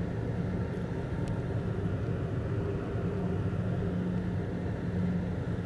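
Steady low rumble of a moving passenger train, heard from inside a sleeping compartment.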